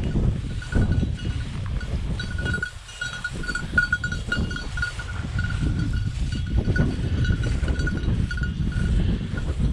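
Prairie wind buffeting the microphone, with a small bell jingling in quick, irregular bursts throughout: typical of the bell collar on a running bird dog.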